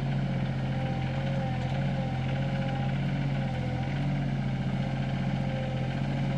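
SANY SY26U mini excavator's diesel engine idling steadily, with a faint wavering whine over the hum.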